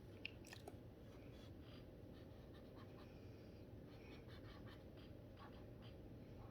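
Faint strokes of a dual brush pen tip on paper, short soft scratches coming irregularly over a low steady room hum.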